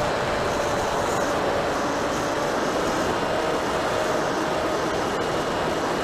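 HobbyKing Drifter RC plane's motor and propeller running steadily in flight, a held whine that drifts a little in pitch over a constant rushing of air.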